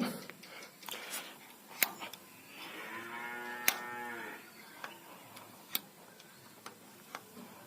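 A cow moos once, a single call lasting a little under two seconds near the middle, with a few sharp clicks before, during and after it.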